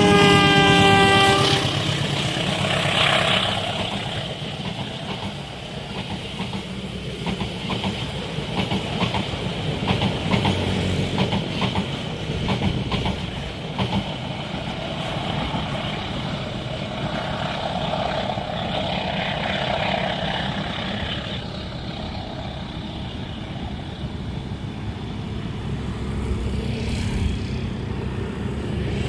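A train horn sounds loudly and cuts off about a second and a half in. Then a long train's wagons run past with a steady rumble and a fast, even clickety-clack of wheels over the rail joints.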